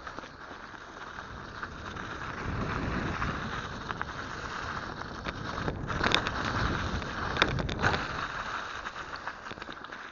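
Mountain bike being ridden, heard through an action camera: rumble from the tyres and trail with wind buffeting the microphone. It grows louder about two seconds in, and a few sharp clatters come past the middle.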